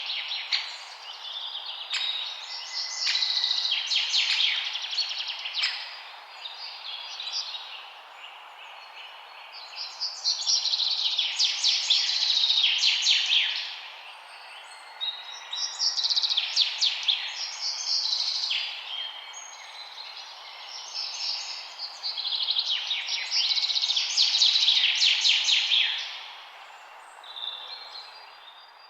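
Songbirds singing in phrases of rapid, high, chattering notes, each phrase lasting a few seconds with short pauses between, over a steady background hiss. The song fades away near the end.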